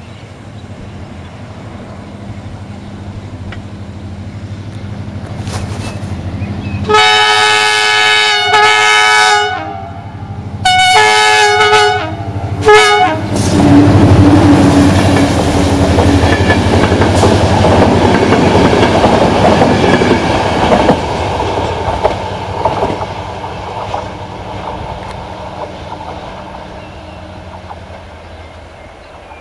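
A CFR class 65 diesel locomotive sounds its horn about a quarter of the way in: two long blasts and a short one. It then passes close with its engine running loud, followed by its passenger coaches clattering over the rail joints, the sound fading away near the end.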